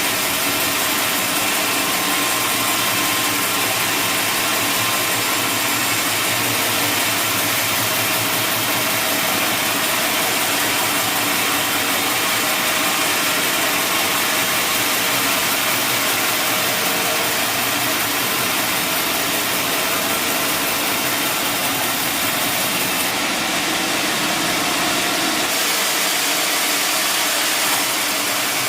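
Sawmill machinery running steadily, a continuous engine-like drone of the saw and its drive. A thin high hiss joins for a couple of seconds near the end.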